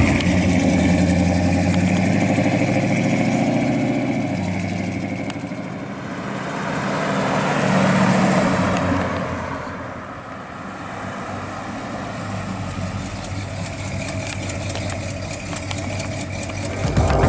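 1964 Chevrolet El Camino's 327 cubic-inch V8 running. It swells louder about eight seconds in, falls back by ten seconds, then runs on steadily.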